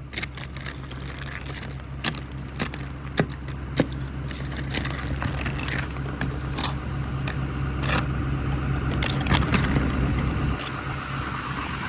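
Ford 6.0 Power Stroke V8 turbo-diesel idling steadily. Over it come scattered sharp knocks and scrapes as thick ice is chipped and scraped off the truck's body and windshield with a small shovel.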